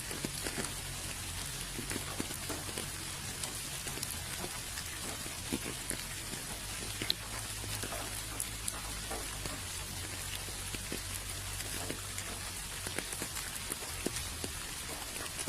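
Steady rain with scattered individual drops ticking on surfaces, over a faint low hum.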